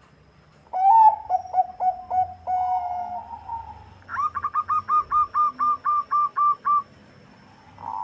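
Zebra dove (Bangkok perkutut) cooing: a series of short staccato notes ending in a longer held coo, then a quicker run of about a dozen evenly spaced, higher notes.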